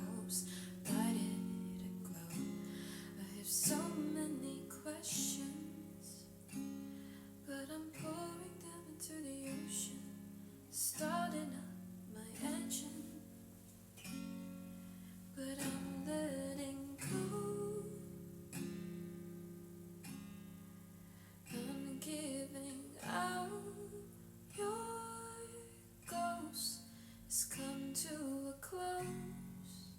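Acoustic guitar strumming chords in an instrumental passage, the chords changing every second or two.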